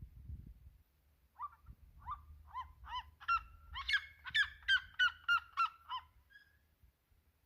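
Red-legged seriema calling: a series of loud, high yelping notes that start slowly, quicken to about three a second and grow louder, then stop about six seconds in.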